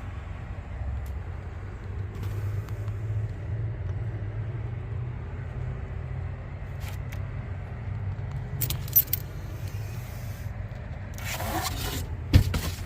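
Steady low hum with scattered metallic clinks, and a jangle of small metal items handled in the last couple of seconds.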